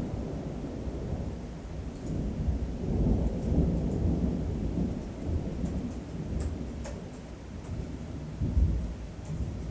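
Thunder rolling and rumbling low and continuously, swelling twice, with the loudest surge near the end.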